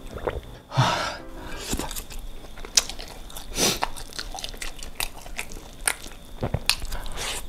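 Close-miked mukbang eating sounds: chewing rice and cocktail sausages in chili sambal, with many wet mouth clicks and smacks. A short breathy burst of noise about a second in.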